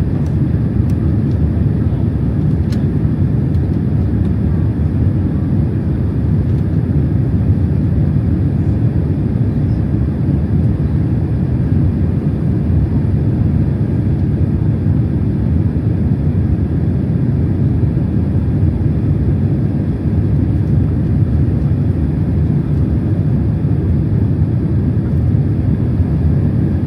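Steady, loud low rumble of a Boeing 767-300 heard from inside the passenger cabin: engine and airflow noise with no change in pitch or level, and a couple of faint ticks near the start.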